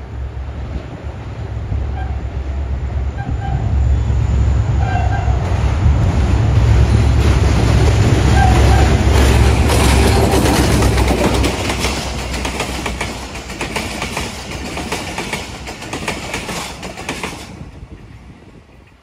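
Diesel-hauled express passenger train passing at speed. The locomotive's engine rumble builds to a peak about halfway through, then the coaches' wheels clatter rapidly over the rail joints and cut off suddenly as the last coach goes by.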